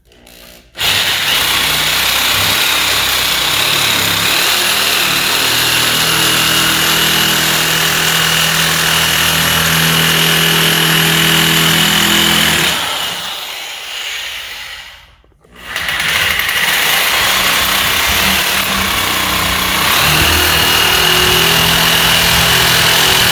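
Electric power tool cutting 18-gauge sheet steel, a steady motor whine with cutting noise. It starts about a second in, dies away around thirteen seconds in, and starts up again a couple of seconds later.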